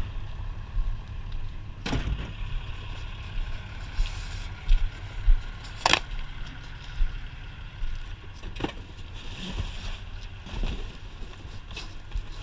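Scattered sharp knocks and clanks of scrap being handled and pulled out of a dumpster, the loudest about 2 and 6 seconds in, over a steady low rumble.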